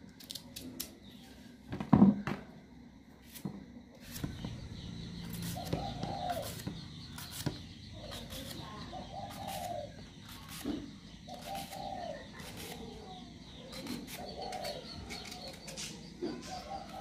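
A bird calling: about five short, low cooing calls a few seconds apart, among scattered light clicks, with one loud knock about two seconds in.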